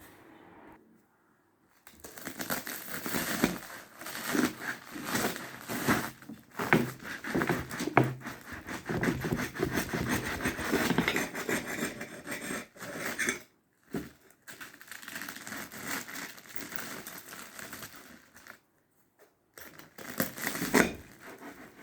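Close-miked eating and food-handling sounds: a dense run of crackly crinkling and tearing, with short pauses about halfway through and near the end.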